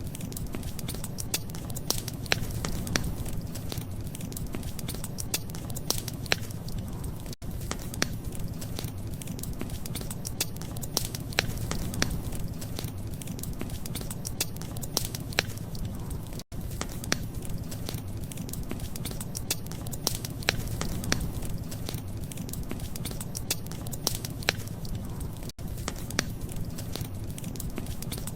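Wood fire crackling, with frequent sharp pops and snaps over a steady low rumble. The sound drops out very briefly three times, about nine seconds apart.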